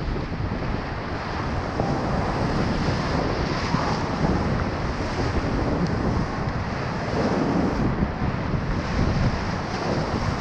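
Rushing white water around a raft in a river rapid, with wind buffeting the microphone.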